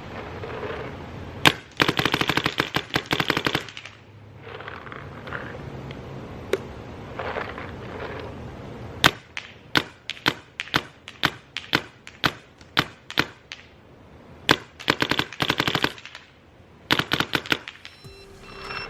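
Smart Parts Dynasty Shocker SFT electropneumatic paintball marker test-fired after a full rebuild. A single shot comes first, then a rapid string of shots. Separate shots follow at about three a second, then two more rapid strings near the end.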